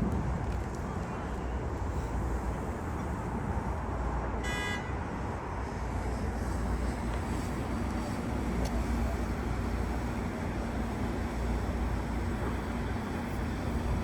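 Metro-North commuter train running through the station with a steady rumble. A short horn toot sounds about four and a half seconds in.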